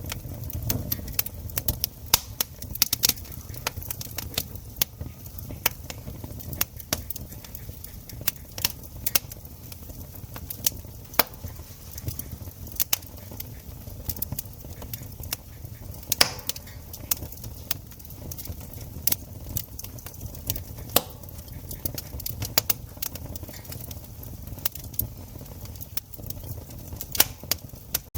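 Wood campfire crackling: a steady patter of irregular sharp pops and snaps, a few louder than the rest, over a low steady rumble of the burning fire.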